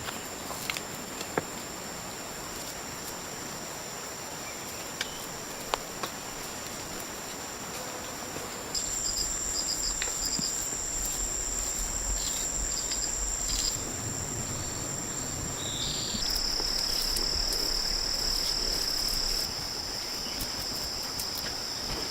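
Rainforest insects singing in a steady, high-pitched chorus. It grows louder about nine seconds in, and the pitch shifts again around sixteen seconds. A few faint clicks can be heard under it.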